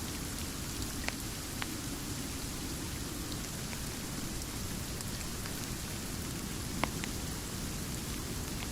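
Steady, continuous rain with a few sharp pops from a crackling wood fire.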